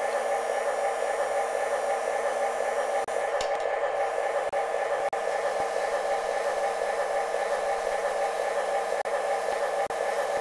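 Steady electric whir of an O-gauge model train layout running, its motors and accessories going without a break.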